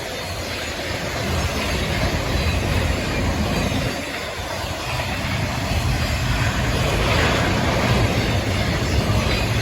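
A train running on the rails, a steady rumble with a rushing hiss over it.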